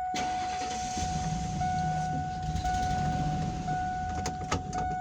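Ford E150 van engine starting and running, with its leaking exhaust manifold patched only with glue. A steady high warning tone sounds over the engine and dips briefly about once a second.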